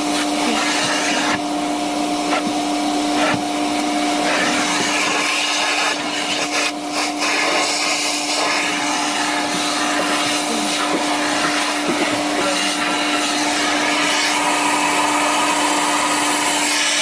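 Vacuum cleaner running steadily: a constant motor whine at one pitch over a broad rush of air.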